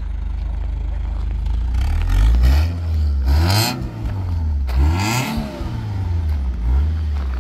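Honda Accord's F22 2.2-litre four-cylinder engine idling, then revved twice, about two and a half and five seconds in, each rev rising and falling back to idle.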